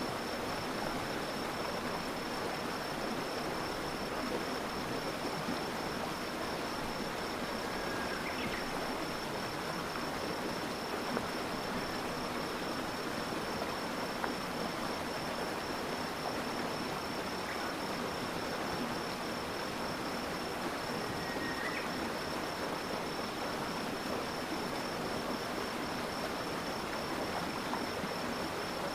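Steady rushing of a flowing stream, with a continuous high insect trill over it. A couple of faint short chirps come through about a third of the way in and again near three quarters.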